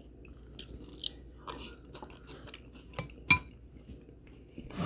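Close-miked chewing and biting of food, with scattered wet mouth clicks and smacks. About three seconds in comes a sharp, ringing clink of cutlery against a dish.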